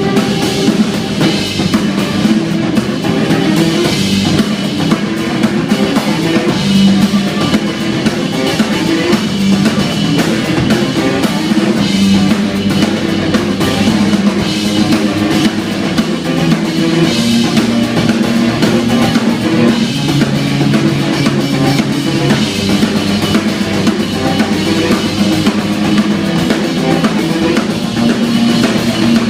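Live instrumental jazz-rock: a busy drum kit with bass drum and snare to the fore, over a line of held bass notes that shift in pitch.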